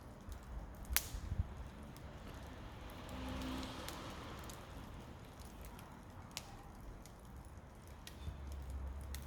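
Wood fire crackling, with scattered sharp pops, one loud snap about a second in.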